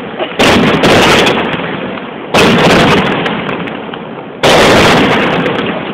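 Aerial firework shells bursting overhead: three loud booms about two seconds apart, each trailing off in a long echo.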